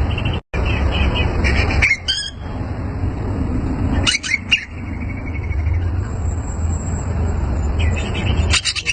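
Cucak ijo (green leafbird) giving short bursts of sharp, quick chattering notes about two, four and eight and a half seconds in, over a steady background noise.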